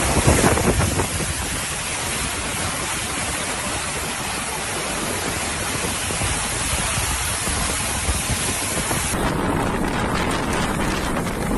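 Storm wind roaring steadily and buffeting the microphone. About nine seconds in the hiss abruptly loses its highest part as the footage changes.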